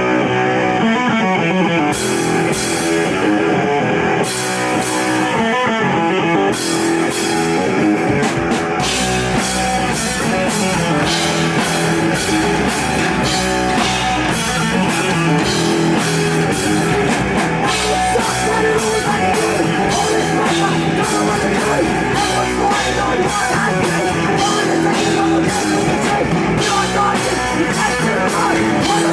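A live rock band playing a song with electric guitar and drum kit, with no vocals. The guitar opens the song, a few drum hits come in over the first seconds, and the full kit with cymbals joins about seven seconds in and carries on with the guitar.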